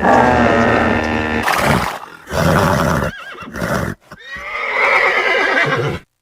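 Horse whinnying: a long call at the start, shorter bursts in the middle, and another long whinny in the second half that cuts off abruptly near the end.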